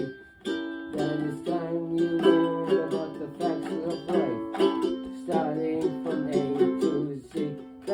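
Ukulele playing an instrumental break: strummed chords with a melody line moving over them, without singing.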